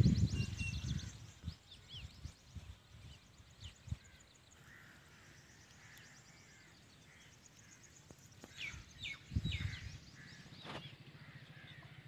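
Small birds chirping and twittering, with many quick high notes and trills, and a run of a few louder falling whistled notes about three-quarters of the way through. A low rumble in the first second and a few dull low thumps near the end sit under the birdsong.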